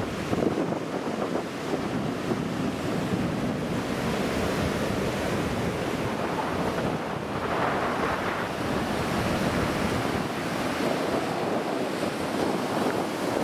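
Ocean surf washing in steadily, with wind buffeting the microphone; the surf swells a little louder about eight seconds in.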